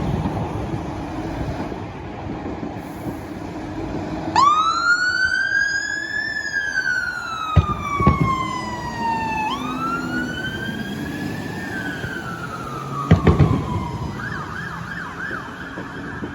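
Emergency vehicle siren starting about four seconds in as a slow wail that rises and falls twice, then switching to a fast yelp near the end. Three sharp bangs sound over the wail, and road traffic rumbles before the siren starts.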